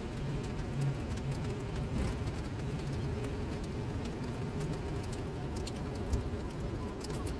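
Rain falling onto a flooded paved surface, drops pattering and splashing into the standing water as a steady hiss full of small sharp ticks, over a low rumble.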